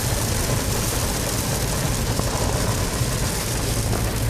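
Steady noise inside a car in a heavy rainstorm: the engine running low with heavy rain on the car.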